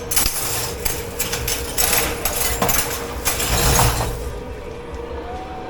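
Dishes, pots and cutlery clattering and knocking as they are handled in a dish pit, stopping about four seconds in, over a steady machine hum.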